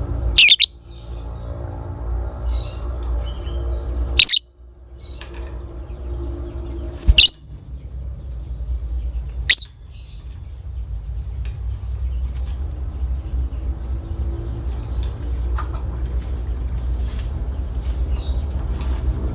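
Lovebirds calling: four loud, short, shrill calls a few seconds apart in the first ten seconds, over a steady high insect-like whine and a low rumble.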